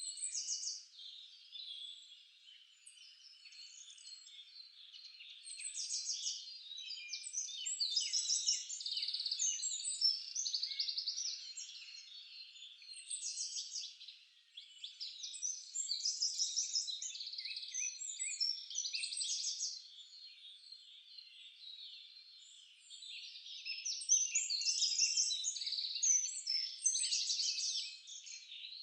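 Several songbirds singing and chirping at once, many overlapping high chirps and quick trills, growing louder in stretches of a few seconds and easing off between them.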